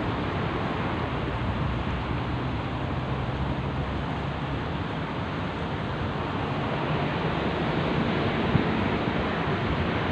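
Steady rushing of sea surf mixed with wind buffeting the microphone, swelling slightly in the second half.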